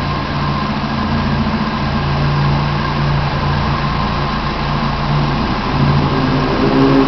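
Renault 12's four-cylinder engine idling steadily with the bonnet open, its note rising a little about six seconds in.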